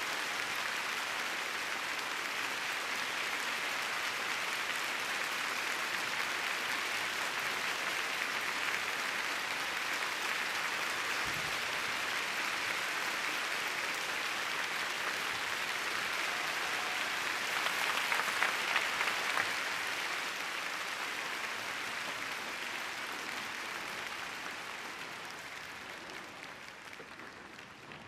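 Arena audience applauding steadily, the clapping swelling briefly about two-thirds of the way through and then fading away towards the end.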